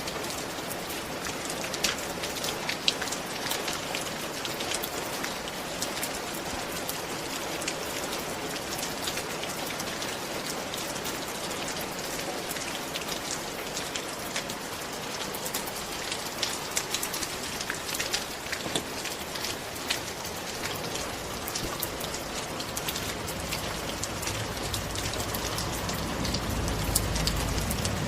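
Steady rain falling on a surface, with many distinct drops ticking through it. A low rumble swells near the end.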